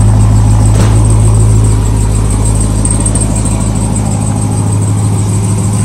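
Straight-piped exhaust of a 2021 Ram TRX's supercharged 6.2-litre Hellcat V8, idling with a loud, steady deep drone. The sound eases slightly about two seconds in.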